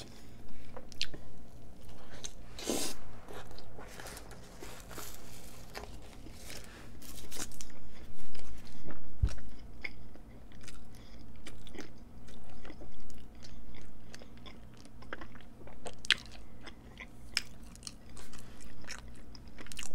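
Close-miked eating of a Subway sandwich: biting, crunching and wet chewing, with many small mouth clicks. The loudest crunching comes about halfway through.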